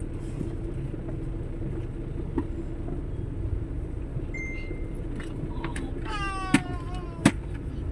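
Vehicle engine and road noise heard from inside the cabin, a steady low rumble. Near the end there is a brief high-pitched sound and two sharp knocks.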